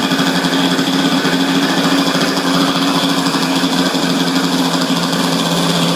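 Small gasoline engine of a single-engine RC quadcopter running at a steady high speed, with a fast rattling beat and a steady low pitch.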